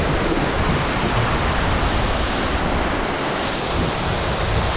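Steady rush of whitewater river rapids, with wind buffeting the microphone.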